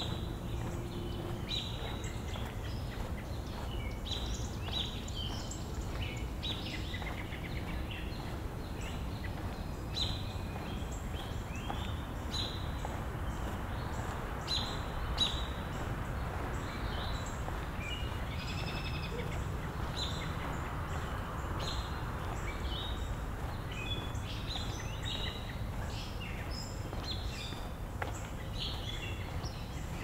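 Songbirds chirping and calling in many short, scattered notes over a steady low background rumble. A soft rushing noise swells and fades in the middle.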